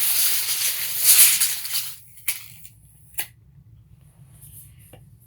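25-foot Lufkin tape measure blade retracting into its case: a rushing rattle for about two seconds, then two sharp clicks about a second apart.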